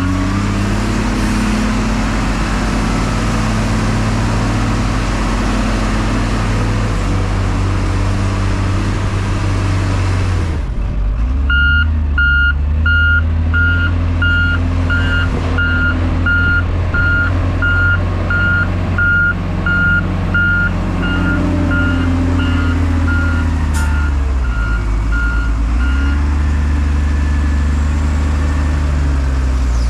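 New Holland 12D wheel loader's diesel engine working, its speed rising and falling, with a dense rushing noise over it in the first third. A reversing alarm beeps about twice a second from about a third of the way in until shortly before the end.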